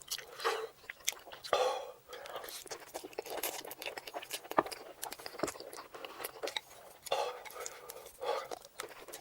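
Close-miked chewing of spicy fire noodles: a run of wet mouth clicks and smacks, with a few breathy or whispered sounds between bites.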